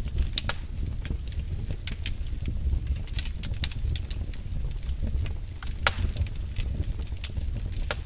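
Fire burning in a fireplace: irregular sharp crackles and pops over a steady low rumble, with one louder pop about six seconds in.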